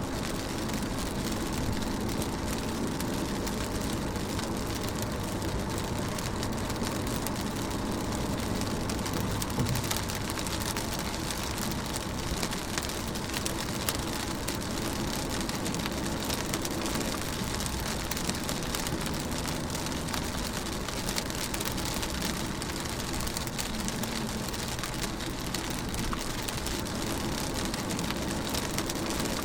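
Rain drumming on a moving car, heard from inside the cabin, with a steady low rumble of engine and road noise beneath and scattered drop ticks.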